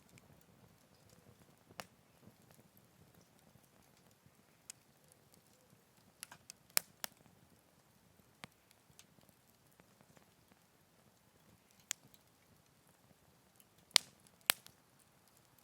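Campfire burning quietly, with a faint low hiss and sparse, irregular sharp pops and crackles, two of the loudest near the middle and two more close together near the end.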